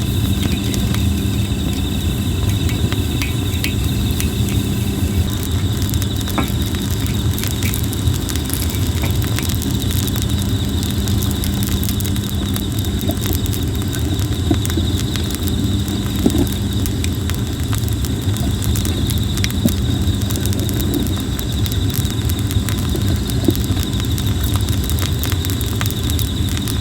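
Campfire of plum wood crackling and popping, with sharp snaps scattered throughout over a steady low rumble. Insects chirr in a steady high tone behind it.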